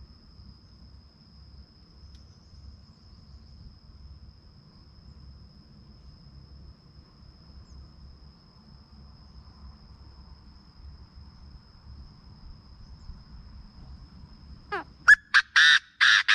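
Chinese francolin calling near the end: a rising note, then a quick series of loud, harsh notes. Before the call there is only faint low background noise and a thin, steady high-pitched tone.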